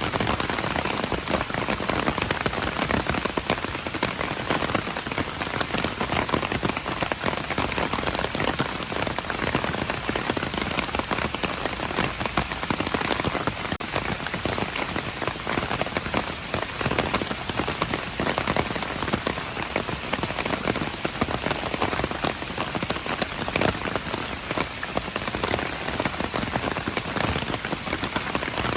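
Steady rain falling on hard surfaces: a dense, even patter of many drops that holds at a constant level throughout.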